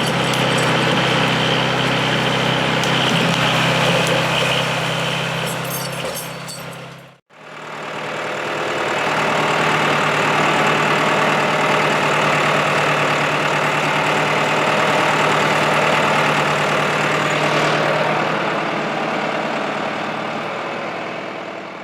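An engine running steadily at a constant speed, heard in two stretches with a brief break about seven seconds in.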